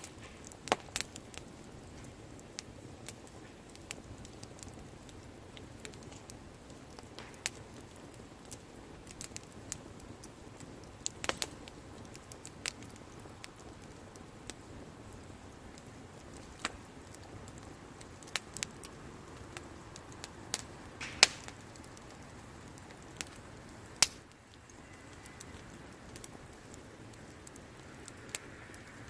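Campfire of burning wood crackling: a steady soft hiss with irregular sharp pops and snaps, the two loudest about 21 and 24 seconds in.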